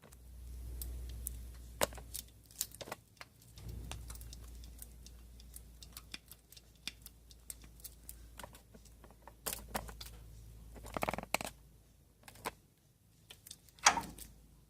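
Irregular light clicks, taps and rattles, like tools and metal parts being handled, over a low rumble. The loudest knocks come about eleven seconds in and near the end.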